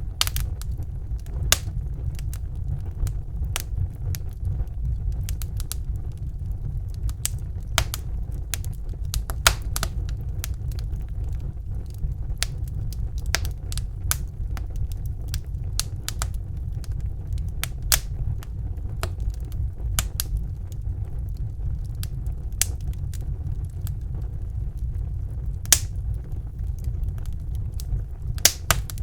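Wood fire burning in a fireplace: a steady low rumble of the flames with sharp crackles and pops at irregular intervals, a few louder pops standing out.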